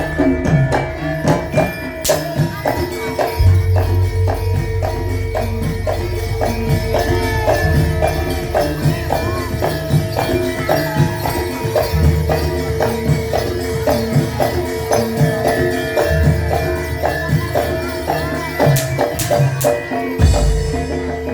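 Live traditional Javanese kuda lumping (imblig) accompaniment music: quick, even percussion strokes over held ringing pitched tones, with a low beat that comes and goes.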